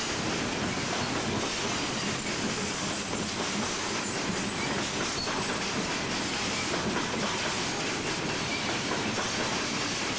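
Loaded coal hopper cars of a freight train rolling past: steady wheel-on-rail noise with scattered clicks from the wheels.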